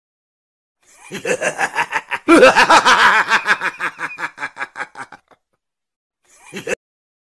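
Human laughter: a fast run of rhythmic ha-ha pulses starting about a second in, growing louder and fuller a little after two seconds, then trailing off. A short, brief sound follows near the end.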